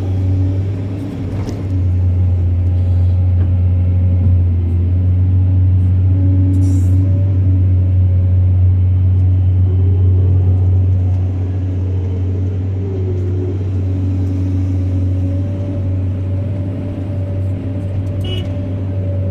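Diesel engine of a heavy earthmoving machine running, a steady low drone with slight shifts in pitch, a little quieter from about eleven seconds in.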